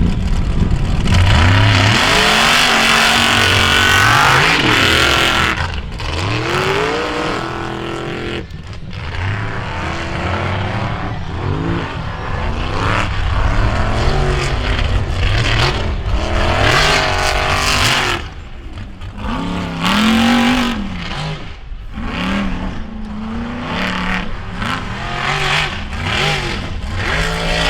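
Off-road racing vehicle engines revving hard, their pitch repeatedly climbing and dropping as they race, loudest in the first few seconds.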